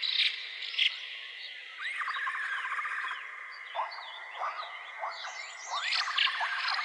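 Small birds chirping and calling over one another, in short rising calls and rapid trills.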